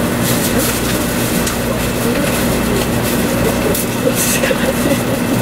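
Running noise of a 500 Series Shinkansen heard inside the passenger cabin: a steady rumble and rush from the moving train, with a constant low hum underneath.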